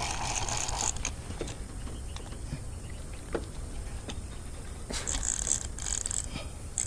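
Fishing reel being cranked in spells as a hooked bass is reeled in: a high-pitched ticking whir for about the first second and again from about five seconds in, with scattered small clicks between. A steady low rumble runs underneath.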